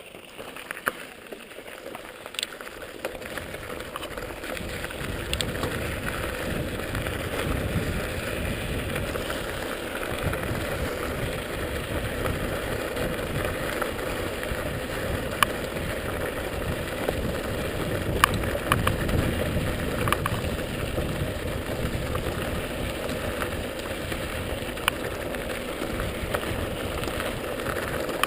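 Mountain bike riding downhill on a dirt trail: a steady rushing rumble of tyres and moving air that builds over the first few seconds as speed picks up, with scattered sharp rattles and knocks from the bike.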